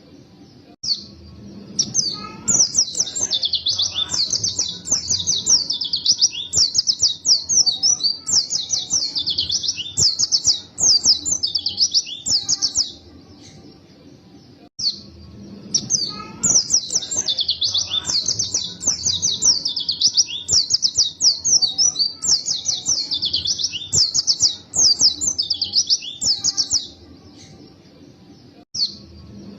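White-eye (pleci) singing long bouts of rapid, high twittering song. The song breaks off for about two seconds near the middle, then resumes.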